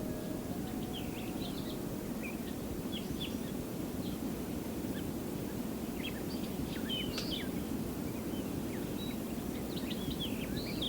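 Small birds chirping and twittering in short, scattered calls over a steady background hiss. The last held notes of music fade out in the first second.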